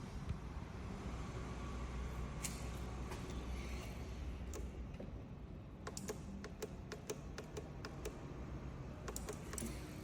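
Irregular sharp clicks, a few at first and then several in quick succession in the second half, over a low steady rumble.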